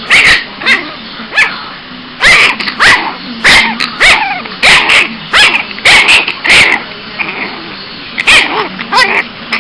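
Boston Terrier puppy barking in a string of sharp, high yapping barks in irregular bursts, with a short lull near the end; the fussy barking of a cranky puppy.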